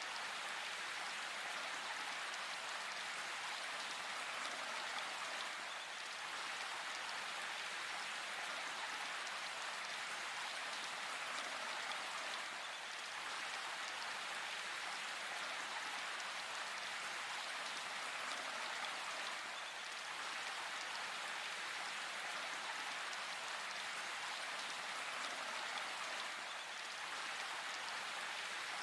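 Steady rain falling in a forest, an even hiss of many drops with no thunder.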